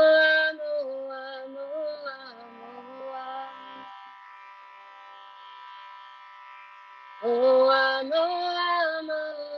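A woman's voice chanting a slow, melodic mantra in two long sung phrases over a steady drone. The first phrase ends about four seconds in, and the second begins about three seconds later.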